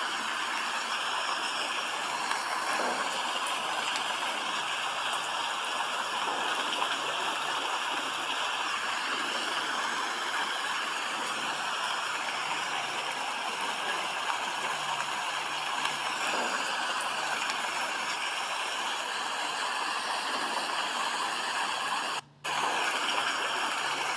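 Steady, heavy rain hissing without a break, with a sudden brief drop-out near the end.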